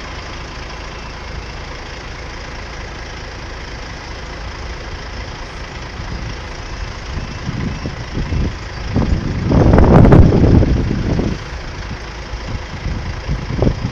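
A vehicle passing close by over a steady low engine rumble: the sound swells from about seven seconds in, is loudest for about two seconds near the ten-second mark, then falls away.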